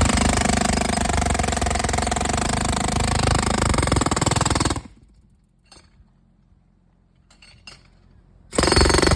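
Jackhammer breaking up thick concrete, hammering rapidly for about five seconds, stopping, then starting up again near the end.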